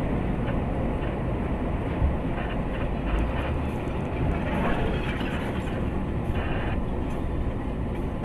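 Steady low rumble of a vehicle under way, heard from on board, with a few light knocks.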